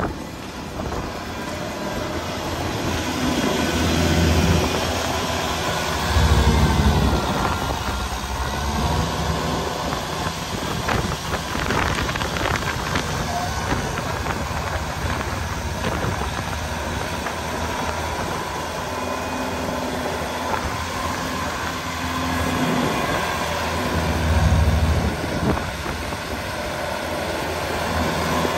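Tractor engine running, swelling in level a few times as if under changing load, with wind blowing across the microphone.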